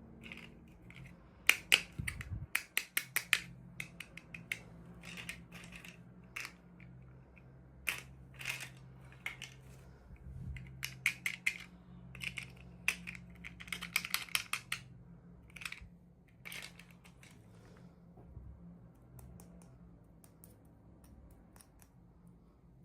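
Toy packaging and small plastic parts being handled by hand in an unboxing: irregular sharp clicks and short rustles. There is a quick run of them a couple of seconds in, and they thin out toward the end.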